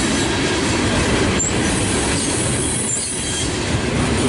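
Loaded coal cars rolling past on steel wheels: a steady rumble of wheels on rail, with brief high wheel squeaks and clicks about every second and a half.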